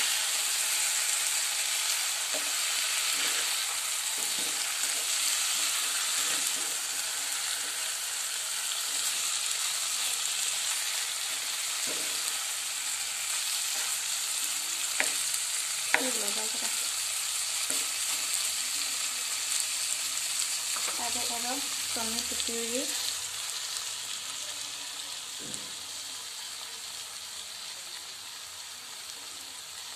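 Chicken pieces frying in oil in a nonstick kadai: a steady sizzle, stirred with a slotted spatula, with a few sharp taps of the spatula on the pan. The sizzle slowly dies down over the last several seconds.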